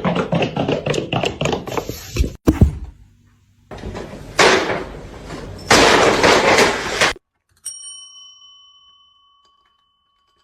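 Clattering and a sharp knock, a few seconds of hissing noise, then a single bell-like ding about three seconds from the end that rings out and fades.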